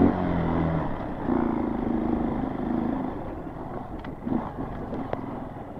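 Small single-cylinder four-stroke dirt bike engine running: a low note for the first second, a higher rev from about one to three seconds in, then it settles quieter with a few light clicks near the end.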